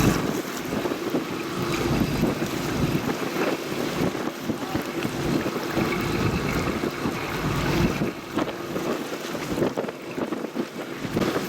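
Wind buffeting the microphone in uneven gusts over a steady wash of water, with a faint low steady hum underneath.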